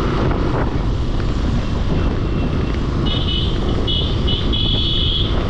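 Wind rushing over the microphone with engine and road noise from a moving motorcycle. About three seconds in, a high-pitched tone sounds in several short pulses.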